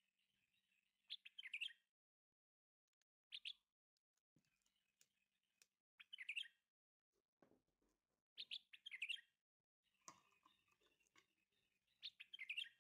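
Faint bird chirping: five short bursts of quick, high chirps, a few seconds apart.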